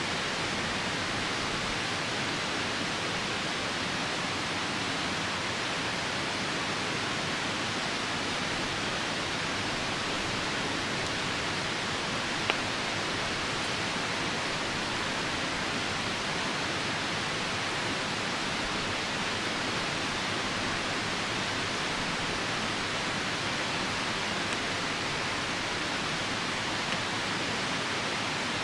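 Steady rushing of a nearby river and falling rain, with a single sharp pop from the wood fire about halfway through and a couple of faint ticks near the end.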